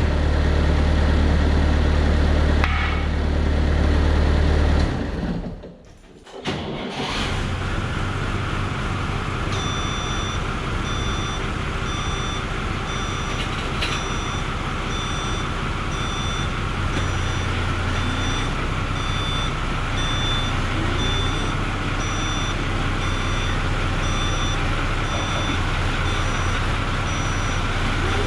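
Bobcat 753 skid steer's diesel engine running steadily. It drops away briefly about five seconds in and comes back. From about ten seconds in, an electronic warning beeper sounds about once a second.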